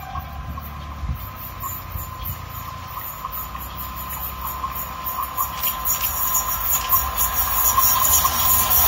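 A WAP-4 electric locomotive hauling an express train approaches at speed, its rumble and track noise growing steadily louder. A steady high ringing tone runs through it, with ticks that come thicker as the train nears.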